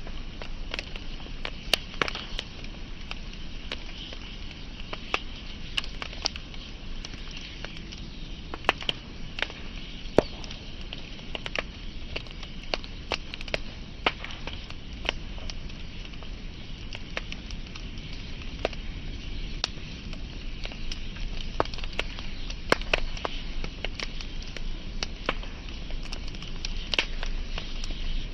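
Wood fire crackling: irregular sharp pops and snaps, several a second, over a steady low hiss and rumble of the burning logs.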